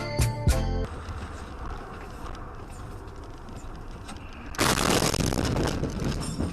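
Road traffic noise from a vehicle clip, a steady rush with no clear engine note. About four and a half seconds in, a much louder burst of noise lasts over a second and a half, then fades.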